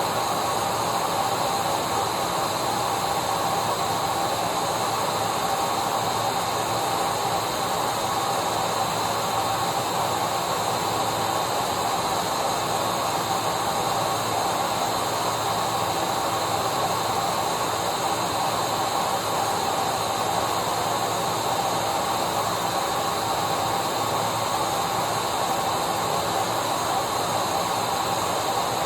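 Vacuum cleaner running steadily: an even rushing hiss of the motor and airflow with a steady whine in it.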